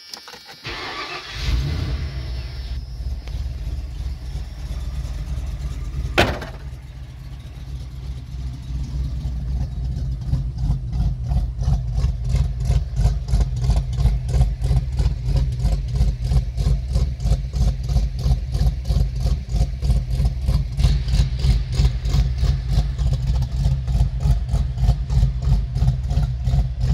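Ford 351 Windsor V8 cranking briefly and catching, then idling with an even pulse through a full 3-inch exhaust and Flowmaster FX series muffler. A single sharp click comes about six seconds in.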